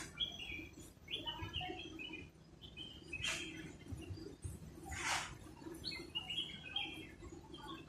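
Small birds chirping over and over in short, quick calls, with two louder brief rasping noises about three and five seconds in.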